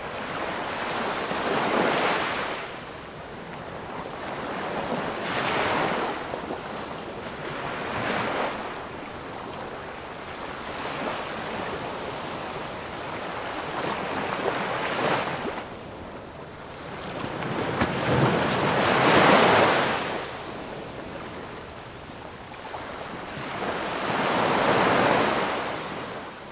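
Sea waves breaking on the shore, the surf swelling and fading every few seconds.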